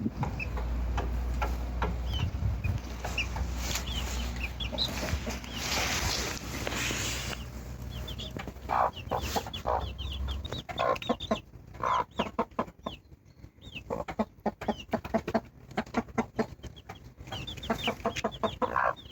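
Birds calling in many short, quick notes that come thicker in the second half, over a low steady rumble that stops about ten seconds in.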